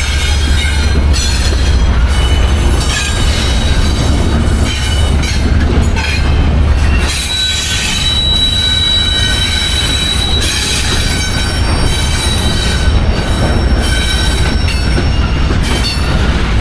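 Freight train rolling past with its wheels squealing: several steady high squeal tones over a low rumble. One squeal grows loudest about eight seconds in, then fades a couple of seconds later.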